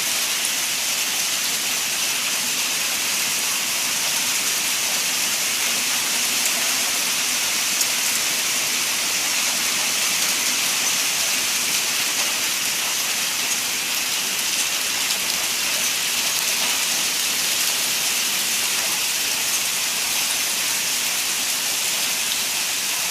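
Hailstorm: hail and rain pelting down, a dense, steady hiss with no single hits standing out.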